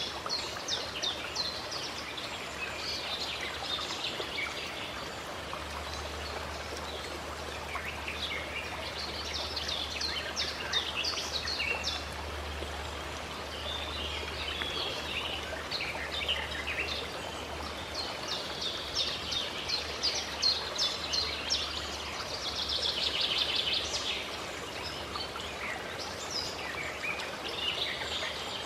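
Several birds chirping and singing in quick repeated bursts, in bouts, over a steady rush of flowing water.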